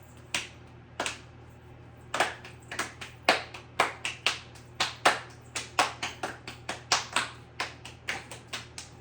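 A quick, uneven run of sharp taps, a few at first and then two or three a second from about two seconds in.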